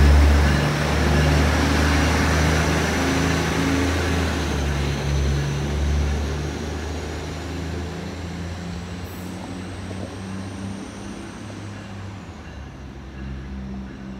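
Diesel train pulling away, its engine drone fading steadily as it recedes, with a faint high whine slowly falling in pitch.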